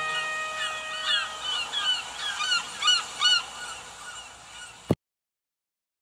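Birds calling in a string of short calls, each dipping and rising in pitch, loudest around three seconds in, while the last held notes of the music fade. Near the end a click, and the sound cuts off.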